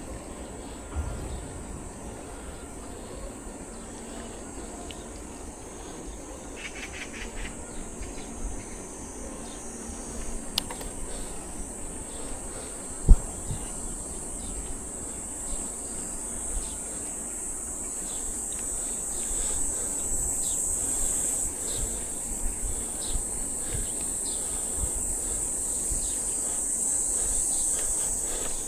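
Insects shrilling in a steady high-pitched drone that slowly grows louder, over a low rumble of wind and tyres from a bicycle riding along. A single sharp knock about thirteen seconds in.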